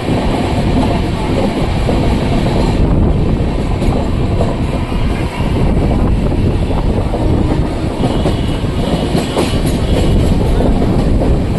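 Amarnath Express passenger train running along the track: a steady, loud rumble of wheels on rails and the moving coach.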